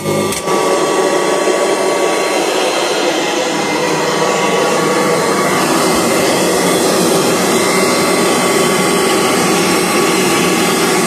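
1984 Kirby Heritage 2 upright vacuum cleaner running steadily at full speed, with a brief knock right at the start. It still runs rather good.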